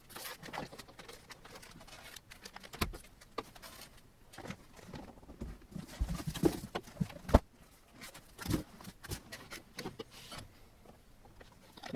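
Irregular clicks, taps and knocks of hands working on a partly assembled 3D printer, with parts and cables being handled, and a few sharper knocks standing out along the way.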